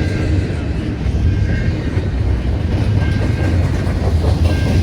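CN freight train rolling past close by: a loud, steady low rumble of wheels and cars on the rails, with a few brief faint high-pitched tones over it.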